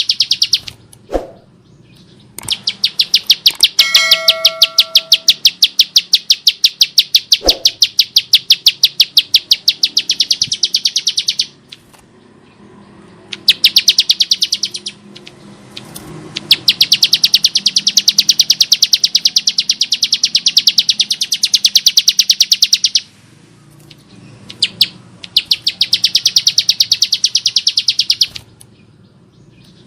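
Bar-winged prinia (Prinia familiaris) calling, a harsh, rapid run of sharp, evenly repeated high notes in long bouts, with short breaks in between.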